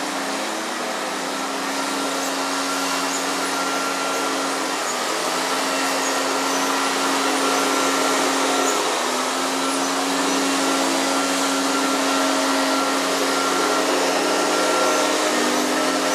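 Loud, steady drone of a motor-driven machine, with a hiss and a low hum whose pitch shifts slightly a few times.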